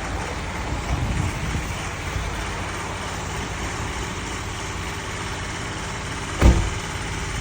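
A car engine idling steadily with a low rumble, and a single sharp thump about six and a half seconds in.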